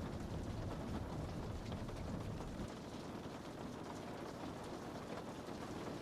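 Rain on a window pane: a steady hiss with scattered taps of drops. A low rumble under it eases about halfway through.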